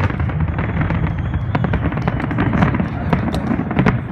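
Fireworks display: many quick sharp bangs and crackles over a continuous low rumble.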